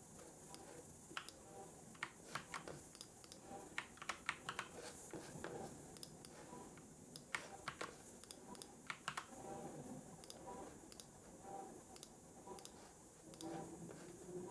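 Typing on a computer keyboard: uneven runs of key clicks, bunched in the middle and thinning out near the end, over faint background hiss.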